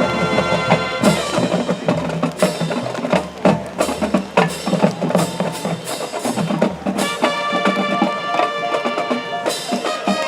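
High school marching band playing its field show: a held brass chord, then from about a second in a stretch dominated by quick, sharp percussion strikes, with sustained band chords returning about seven seconds in.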